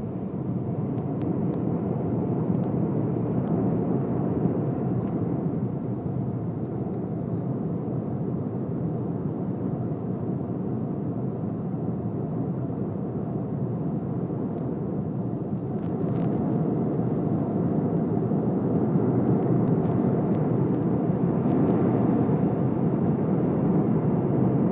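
Airbus A320 cabin noise at cruise: a steady rush of airflow and engine noise that gets a little louder about two-thirds of the way through.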